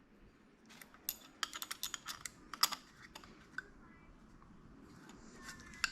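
Cordless drill's keyless chuck being hand-tightened on its bit: a quick, irregular run of small clicks lasting about three seconds.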